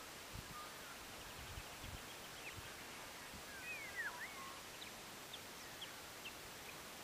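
Faint bird calls: scattered short chirps and a cluster of swooping whistled notes about four seconds in, over a steady outdoor hiss. A few low thumps come in the first three seconds.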